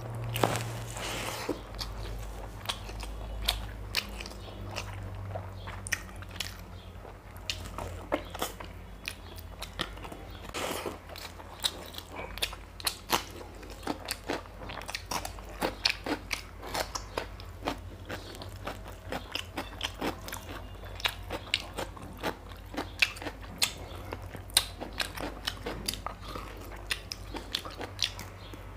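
Close-miked eating: chewing and wet mouth smacking of mutton curry and rice eaten by hand, with crisp crunching bites of raw cucumber. Sharp, irregular clicks come several times a second, thicker in the second half.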